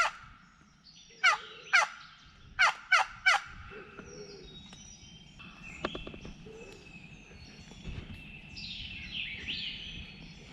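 Turkey yelps, loud falling notes about a third of a second apart: two, then a run of three, in the first few seconds. After that, small songbirds chirp and sing, with a single knock about six seconds in.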